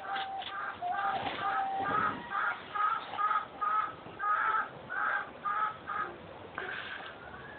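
A bird calling in a fast series of short, harsh, crow-like notes, about two to three a second, which stop about six seconds in.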